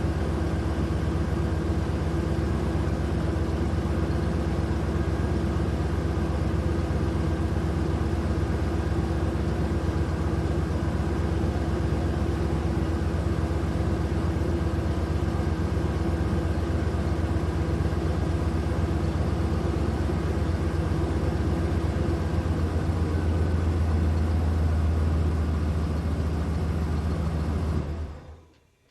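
Steady engine rumble like a vehicle idling, growing slightly deeper and stronger near the end before fading out quickly.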